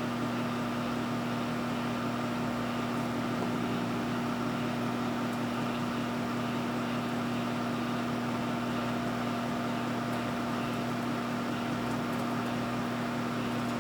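Microwave oven running: a steady electrical hum with a fan whirring, unchanging throughout.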